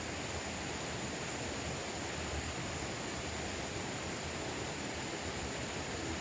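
Steady outdoor background noise: an even hiss with a faint, thin, high-pitched whine held throughout.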